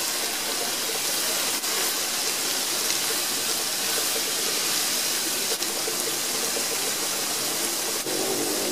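Food sizzling steadily in a hot wok as it is stir-fried with a spatula, with a few light knocks.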